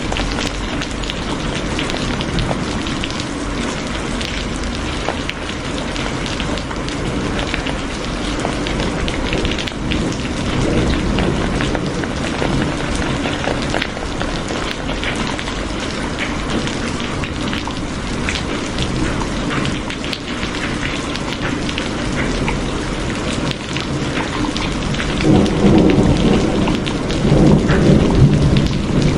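Steady rain falling, a dense hiss with many individual drops pattering on a surface. About four seconds before the end a low rumble of thunder swells up and grows louder.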